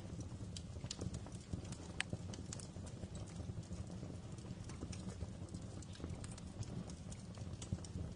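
Wood fire crackling: irregular small snaps and pops over a low, steady rumble of burning logs, with one sharper pop about two seconds in.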